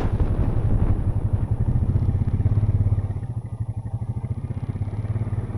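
ATV engine running with a fast, even low pulse, easing off a little about three seconds in.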